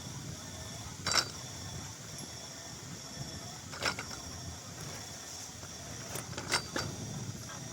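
Mechanical clacks repeating about every two and a half seconds over a steady low rumble, three in all, the first the loudest.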